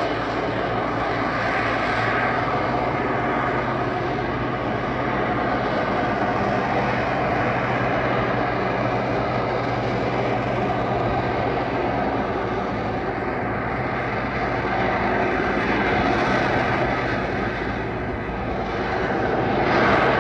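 Aircraft engine of a display plane flying overhead: a continuous steady engine note that swells as it passes, about 2 seconds in, around 16 seconds and again at the end.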